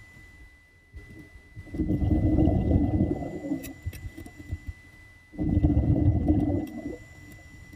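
Water surging in low, rumbling washes, twice, each lasting about a second and a half, with quieter gaps between.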